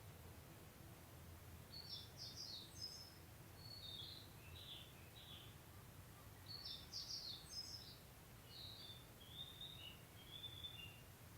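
A small songbird singing two quick runs of high, jumbled chirping notes a few seconds apart, over a faint steady low rumble.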